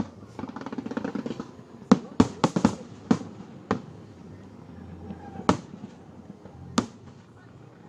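Fireworks bursting: a stretch of crackling, then a quick run of sharp bangs about two seconds in, followed by two single bangs spaced well apart.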